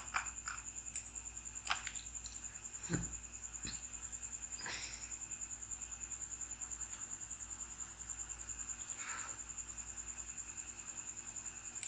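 A steady high-pitched trill, pulsing several times a second, with a few faint computer mouse clicks scattered through it.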